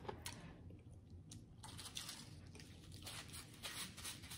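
A person chewing food close to the microphone: faint wet mouth sounds with small clicks and smacks scattered through.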